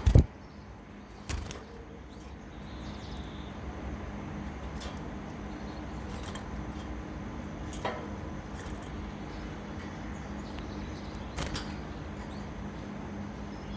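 A loud knock at the start and another about a second later, then a few sparse faint clicks and a short high chirp from the cage birds over a steady low hum.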